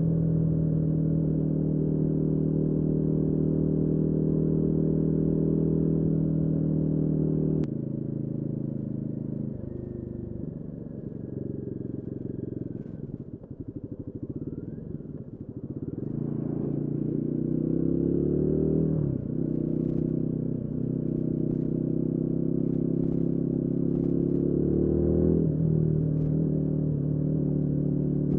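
Royal Enfield Guerrilla 450's single-cylinder engine running at steady throttle, then backing off about eight seconds in and running quieter and slower for several seconds. It then pulls away again, its pitch climbing and dropping sharply twice as it shifts up.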